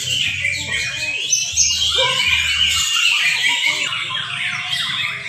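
Several young white-rumped shamas singing at once, a dense overlapping mix of rapid whistles, chirps and trills.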